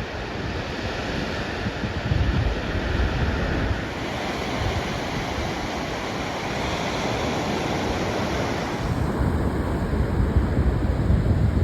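Ocean surf breaking and washing up a sandy beach, with wind buffeting the microphone in low rumbling gusts, heaviest a couple of seconds in and again near the end.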